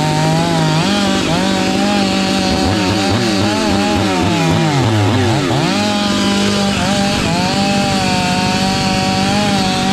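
Husqvarna 500i two-stroke chainsaw running near full throttle, cutting wood, its pitch sagging and wavering for a couple of seconds around the middle before it climbs back up.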